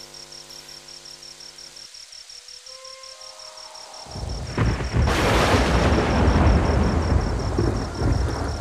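A soft held music chord fades out. About four seconds in, thunder builds into a loud, long rumble with the hiss of a downpour.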